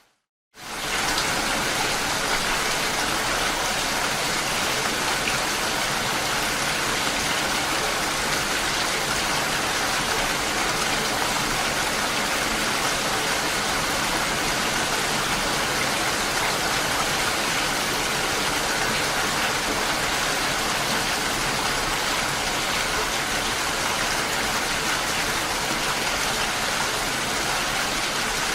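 Steady rain falling, an even, dense hiss. It cuts to silence for an instant at the very start and fades back in within about a second.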